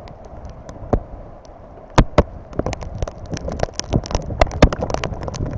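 Heavy rain: a steady hiss with many irregular sharp taps of drops striking close to the microphone, coming thicker in the second half.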